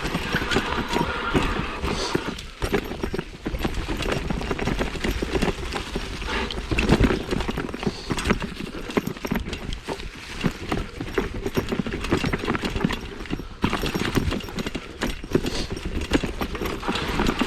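A 1987 Specialized Stumpjumper mountain bike clattering and rattling over rough dirt trail, a dense run of irregular knocks and jolts.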